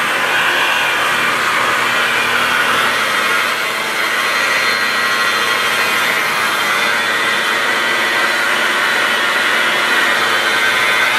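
Electric car polisher (buffer) running steadily with its pad on the paint, a continuous motor whine with no pauses.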